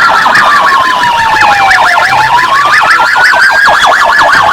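Electronic police siren sounding loudly: a slow wail that falls for about two seconds and then rises again, layered with a rapid warbling yelp.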